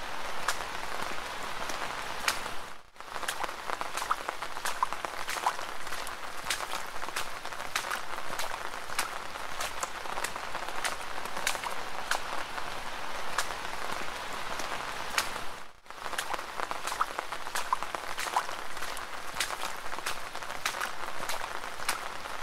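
Steady rain falling: a dense hiss of drops with many sharp single drop hits standing out. The sound cuts out briefly twice, about three seconds in and again about sixteen seconds in.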